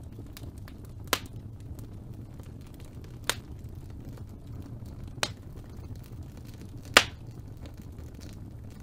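Four sharp clicks about two seconds apart, the last the loudest, over a steady low hum with faint crackling.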